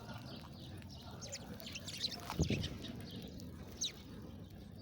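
Small songbirds chirping: short, high chirps scattered throughout, with a louder, lower sound about halfway through and one loud chirp a little later.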